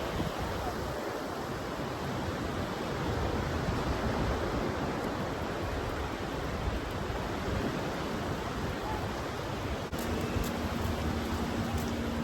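Surf washing ashore with wind on the microphone, a steady rushing. Near the end the sound cuts briefly and a steady low hum joins in under the surf.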